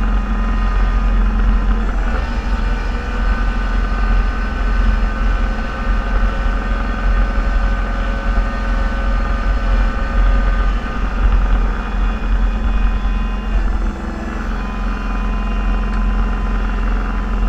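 Snowplow vehicle's engine running steadily, heard from inside the cab, a loud low drone with a few steady whining tones above it and a brief dip about fourteen seconds in.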